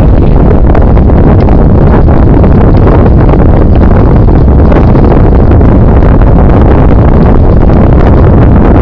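Loud, steady wind noise buffeting the camera microphone of a moving bicycle, with many small clicks and knocks from the ride running through it.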